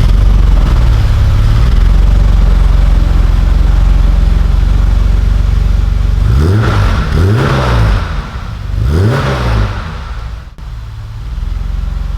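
1985 BMW 535i's straight-six engine idling loudly through its newly fabricated custom exhaust. It is revved three times between about six and a half and nine and a half seconds in, each rev rising and falling back to idle.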